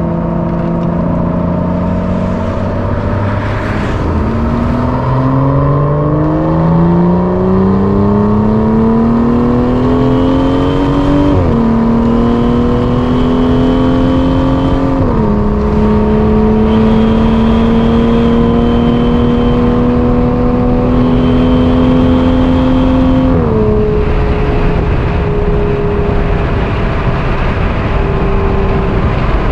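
Aston Martin engine heard from inside the cabin under hard acceleration at high speed. The engine note climbs, drops suddenly at three upshifts (about 11, 15 and 24 seconds in), then holds steady, over a constant rush of road and wind noise.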